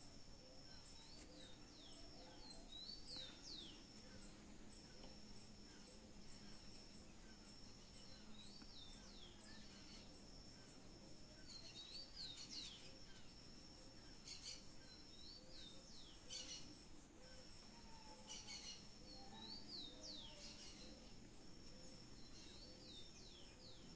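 Faint songbird singing, repeating a short phrase of quick chirps every second or two over a steady thin high-pitched tone.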